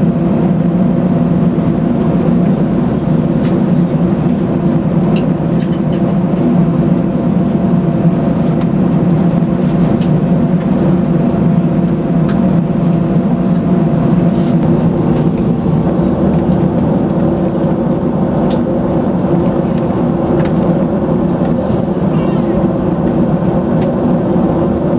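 Steady engine and airflow drone inside the cabin of an Airbus A319 airliner, heard from a window seat behind the wing, with a low hum of several steady tones. A faint higher hum stops about halfway through.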